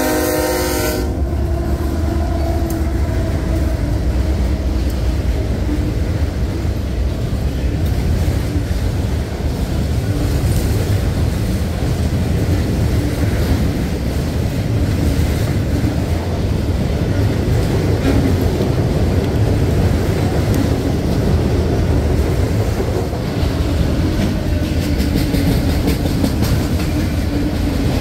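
A diesel freight train's horn ends about a second in, then the locomotives and a long string of autorack cars roll steadily past, with a constant rumble and the wheels clattering over the track.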